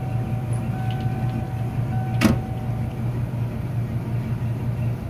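Ford Bronco engine idling steadily, with a thin steady tone that stops about three seconds in and a single sharp thump about two seconds in.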